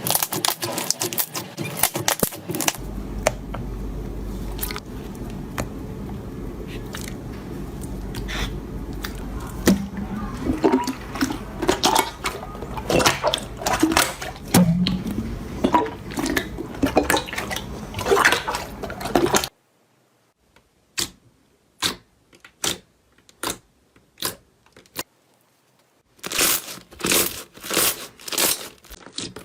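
Slime being squished and poked by hand, making sticky wet clicks and pops. About two-thirds of the way through, the background drops away and the pops come singly, then turn into a quick run of crackles near the end.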